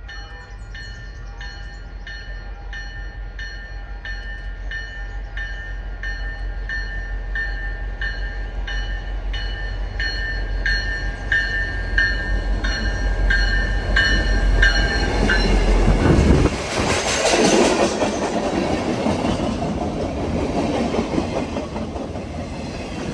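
A bell rings about twice a second while the low rumble of GP40MC-3 diesel locomotives grows. The bell stops about fifteen seconds in, and the work train passes loudly, engines and wheels on the rails, then fades.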